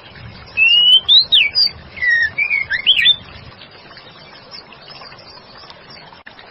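Female white-rumped shama singing one short phrase of clear whistles that glide up and down, lasting about two and a half seconds and starting about half a second in.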